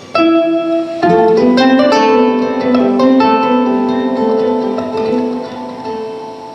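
Live solo instrumental music on a stringed instrument: a single ringing note, then a chord about a second in and a run of overlapping notes that ring on and fade near the end.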